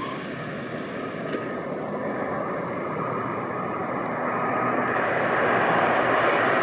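An airliner's engines roaring steadily as the aircraft passes, growing louder over the last couple of seconds.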